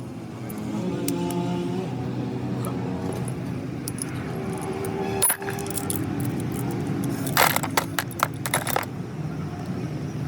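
Metal parts and tools clinking against each other, with a quick run of sharp clinks about three-quarters of the way through, over a steady low mechanical hum.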